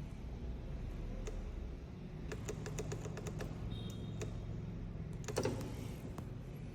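Scooter controls being worked: a run of quick light clicks, a short high electronic beep, then a louder clatter about five seconds in.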